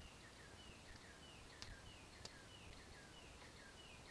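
Faint bird calls: a series of short, downward-sliding chirps at about two a second, with a couple of faint ticks among them.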